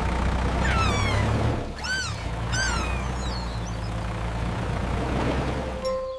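A vehicle engine running steadily, with a few short, high squeaky animal calls that slide in pitch, about one to three seconds in.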